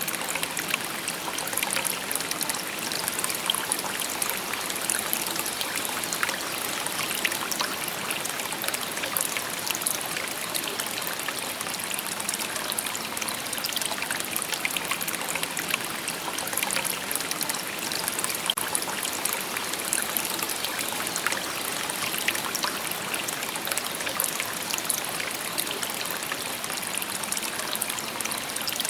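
Shallow river babbling over stones: a steady, even rush of water with fine splashing and trickling.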